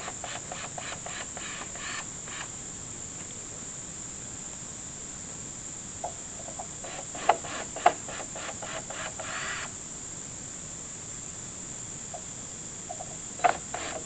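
Steady high-pitched chorus of insects, typical of crickets, running throughout. Three runs of rapid ticking, each a second or more long and a few seconds apart, with two sharp knocks in the middle run.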